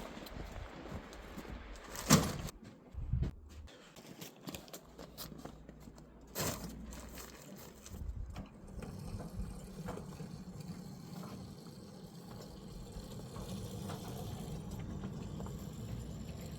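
A few sharp knocks in the first seconds, then an engine running steadily from about halfway, slowly getting louder toward the end.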